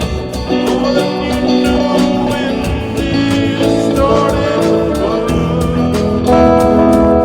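Live music from an improvised band practice, with guitar among the instruments playing held, shifting notes.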